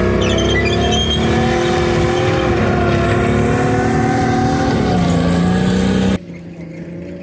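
Heavy vehicle's engine running loud under load, its note sagging and recovering, dropping lower about five seconds in. About six seconds in the sound cuts off suddenly, leaving a much quieter background.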